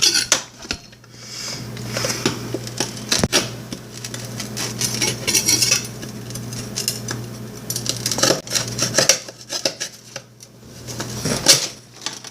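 Utensils scraping, tapping and clinking against a plate, prying chunks off microwave-melted candy that has set hard like a candy apple, with a sharp knock about three seconds in.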